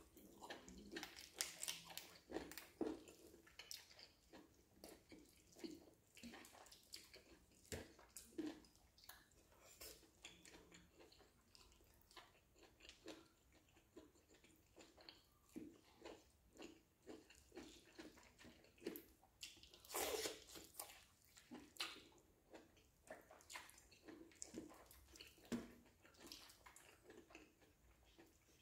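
A person chewing and biting roasted chicken close to the microphone: an irregular run of short chewing and mouth sounds, with a louder cluster about two-thirds of the way through.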